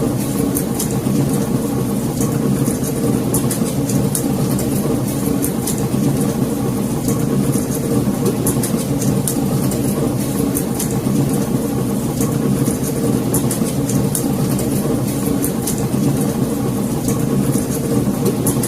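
Wood fire in a fireplace crackling: irregular sharp pops and snaps over a steady low roar of the flames.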